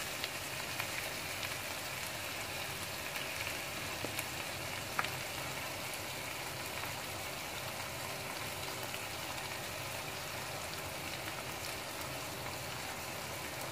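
Bacon, mushrooms and green peas sizzling steadily in a hot wok as béchamel cream is poured over them, with a light tick about five seconds in.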